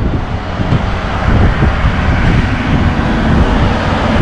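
Road traffic passing on a highway, a loud steady rumble.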